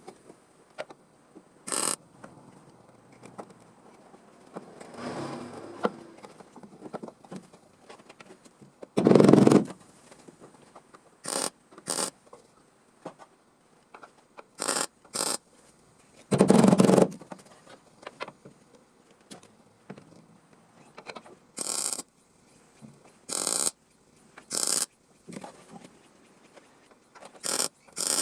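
Welder crackling in short, separate bursts, about a dozen of them, as a patch panel is tack-welded into a car's rusted floor. Two bursts, about nine and sixteen seconds in, are longer and louder than the rest.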